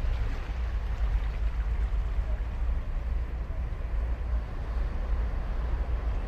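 Ocean surf breaking and washing on a sandy beach: a steady rush of waves over a low rumble.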